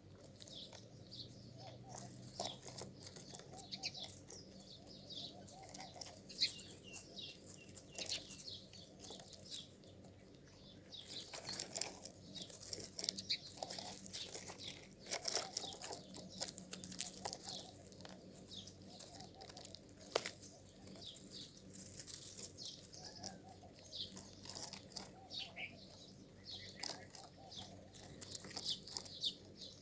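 Many small birds chirping and twittering in a continuous chatter, with wing flutters and occasional sharp clicks.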